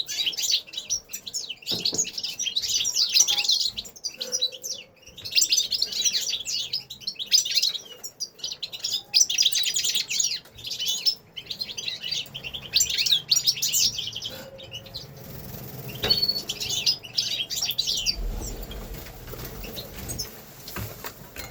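Caged finches singing: fast, dense twittering phrases of a second or two each, separated by short pauses, dying away near the end.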